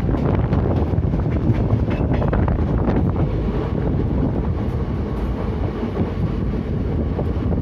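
Train running on the rails: a steady low rumble with the wheels clicking irregularly over rail joints.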